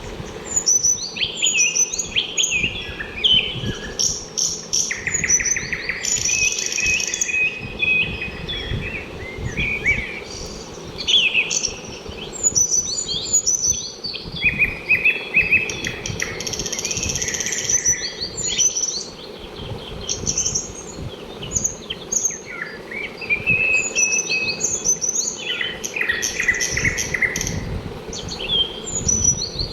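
Many small birds chirping and calling at once: rapid overlapping chirps, trills and short whistles, thick and continuous with only brief lulls.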